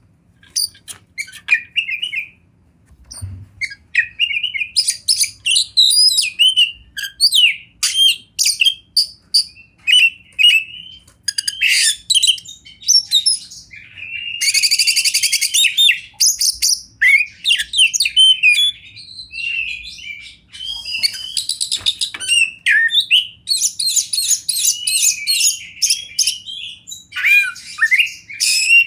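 Oriental magpie-robin singing a long, varied song of clear whistles and chirps broken by harsh, buzzy phrases, with short pauses between phrases.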